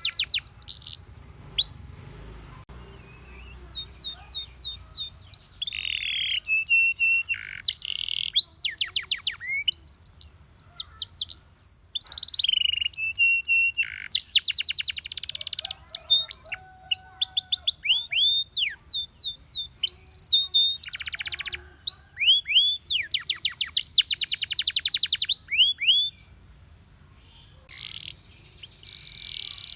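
Domestic canary singing: fast rattling trills alternate with runs of sharp, downward-sweeping whistled notes, with a brief quieter lull near the end.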